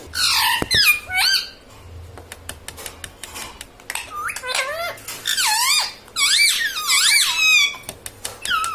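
A pet parrot making high, squeaky calls that glide up and down, in several short runs, with a few faint clicks in a quieter stretch about two to four seconds in.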